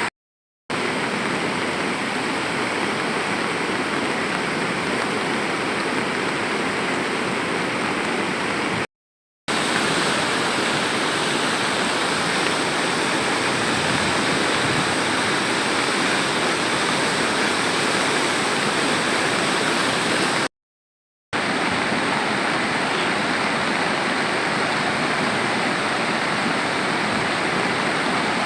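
Kali Gandaki river in flood, rushing water making a steady, loud noise, broken by three brief silent gaps where the footage is cut.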